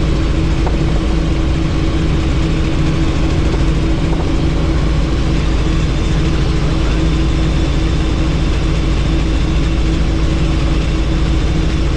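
Helicopter in steady flight: constant engine and rotor noise with a steady hum and a rush of air, unchanging throughout.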